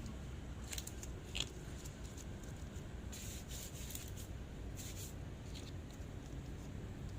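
Hands working bread dough on a floured work surface: faint, scattered rubbing and scraping, with one sharper scrape about a second and a half in, over a low steady hum.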